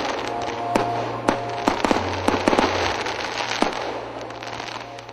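Fireworks display going off: sharp bangs and crackling over a dense hiss, thinning out and fading away over the last couple of seconds.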